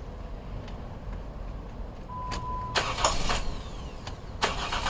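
A short beep and a few clicks, then near the end the 2011 Jeep Wrangler's 3.8 L V6 begins cranking over on the starter, an even repeating churn.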